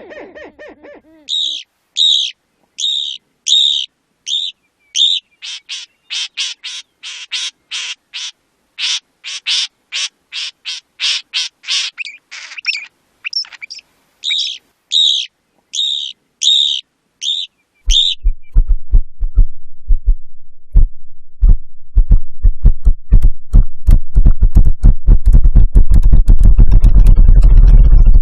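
A bird calling a high, clear note over and over, slowly at first, then quicker in the middle, then slowly again. It stops about two-thirds of the way through and gives way to a series of low thumps that speed up into a continuous rumble.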